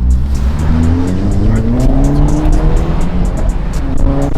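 Car engine accelerating hard, its pitch climbing steadily for about three seconds, over background music with a heavy bass.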